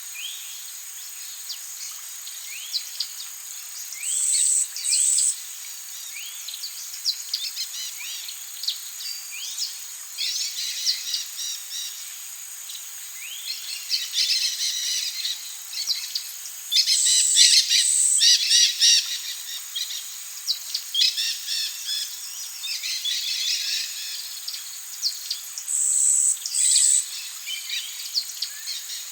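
Rainforest birds calling with many short, rising chirps and dense bursts of chatter, over a steady high-pitched insect drone. A loud, high, two-part call stands out three times, a few seconds in, past the middle, and near the end.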